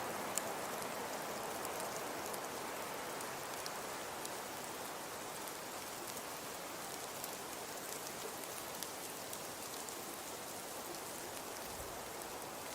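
Fireplace crackling: a steady soft hiss with scattered faint small pops.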